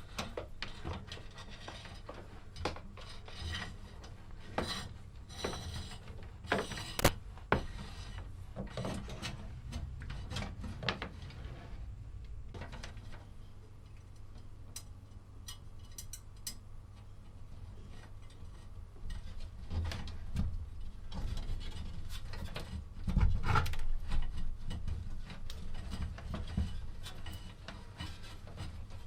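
Hand work in a workshop: irregular rubbing and scraping, with scattered sharp clicks and knocks that get louder about two thirds of the way through.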